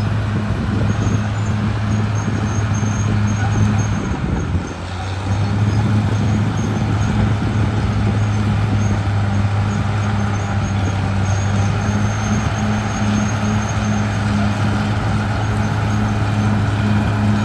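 Caterpillar D6R XL bulldozer's diesel engine running steadily with a deep, even hum. The sound dips briefly about four and a half seconds in, then picks up again.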